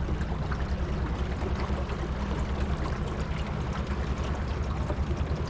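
Boat motor running steadily with a low pulsing hum, with water rushing and splashing along the hull.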